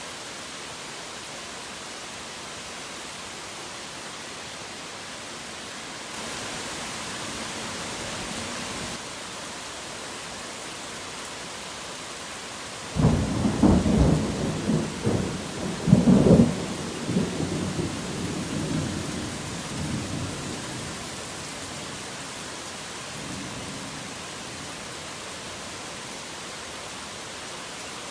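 Steady heavy rain hiss with thunder: a sudden loud clap about halfway in that rolls on in a series of rumbles for several seconds before dying away. The rain swells louder for about three seconds before the thunder.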